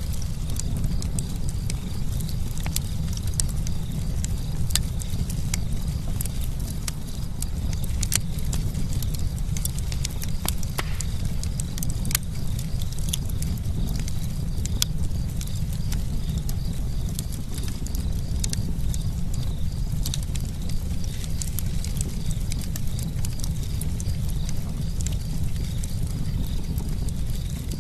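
Campfire burning with a steady low rumble and frequent sharp crackles and pops of burning wood.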